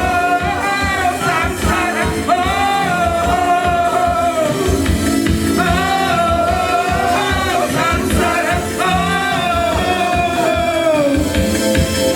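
Live band music with a singer holding long sung notes over a steady drum beat.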